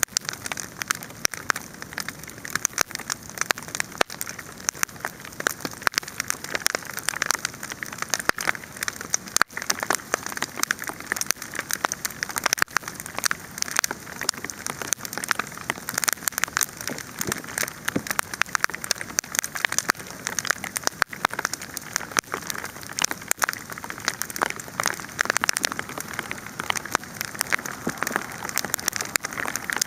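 Wood campfire burning, with a dense, continuous crackle of small sharp pops over a steady hiss.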